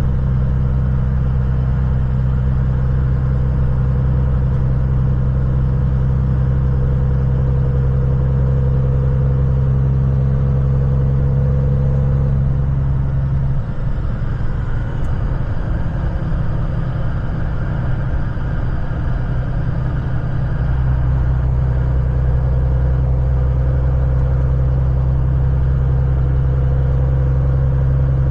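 Kenworth semi truck's diesel engine droning steadily while driving. About halfway through, its low note breaks up and wavers for several seconds, then settles back into the same steady drone.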